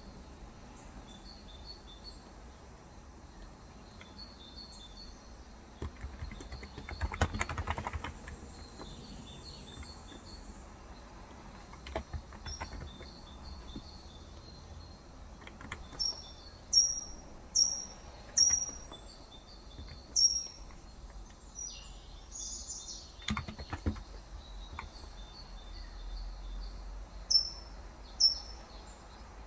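Birds chirping with a quick repeating chirp throughout. From about halfway through comes a series of loud, falling chirps, the loudest sounds here. A short burst of typing on a Cox Endeavour electro-capacitive keyboard with 35 g switches comes about seven seconds in, with a few single keystrokes later.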